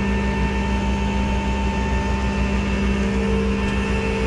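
Tow truck engine running steadily, a constant drone with an even hum and no change in speed.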